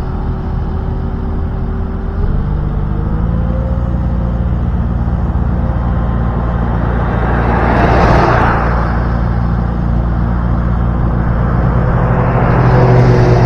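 Engine running steadily, its speed rising a little about two to three seconds in, with a swell of rushing noise about eight seconds in and another near the end.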